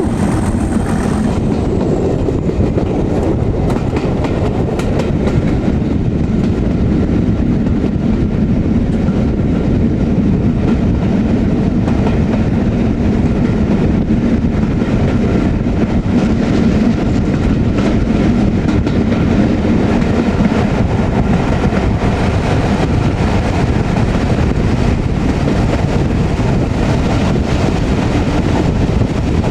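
Heritage passenger train running behind a Class 37 diesel-electric locomotive, heard from on board: wheels clattering on the rails over a steady drone from the locomotive's English Electric V12 diesel. The drone eases off about two-thirds of the way through.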